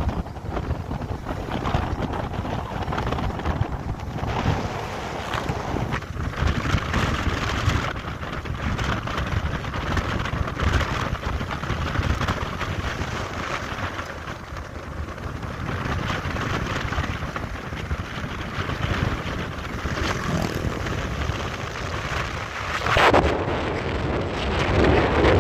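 A vehicle on the move, its engine running steadily under heavy wind buffeting on the microphone. Near the end one sound drops quickly in pitch, and the noise grows a little louder.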